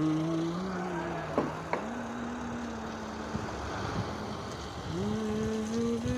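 Tractor engine running, its pitch stepping up twice as the revs rise, with a couple of sharp clicks about a second and a half in.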